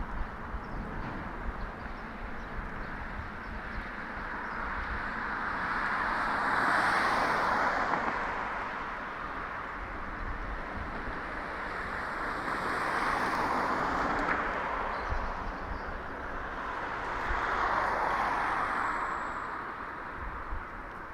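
Street traffic passing: three vehicles go by one after another, each a rushing tyre-and-engine sound that swells, peaks and fades over a few seconds, over a steady low rumble.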